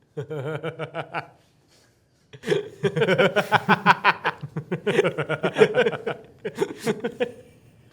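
Human voices chuckling and laughing, in short rapid pulses. There is a burst in the first second, a pause of about a second, then a longer stretch of laughter that lasts most of the rest.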